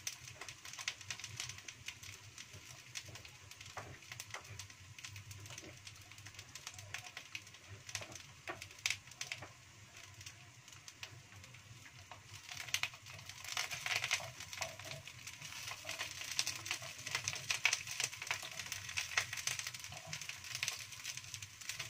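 Halved eggplant sizzling and crackling as it pan-grills in a hot non-stick pan, the crackling becoming busier about halfway through. Near the end the pieces are turned over with chopsticks.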